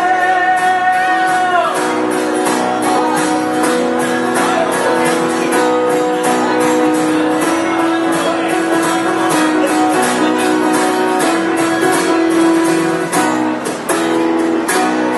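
Live band music: guitar with held notes over a steady beat.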